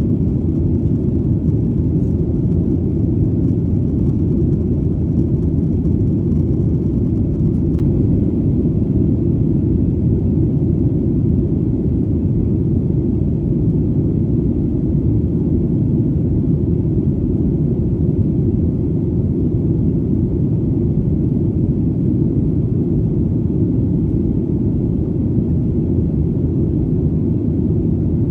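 Airplane in flight, a low, steady engine drone that does not change.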